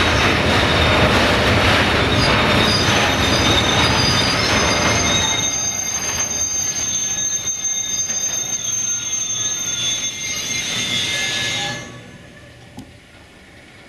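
Freight train's tank wagons rolling past, wheels on the rails loud at first, then quieter, with a steady high-pitched wheel squeal over the running noise for several seconds. The sound drops off suddenly near the end.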